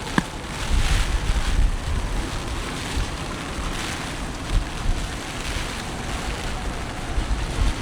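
Typhoon wind gusting against the microphone in low rumbling buffets, over a steady rushing hiss of wind-driven rain. There is a single sharp click just after the start.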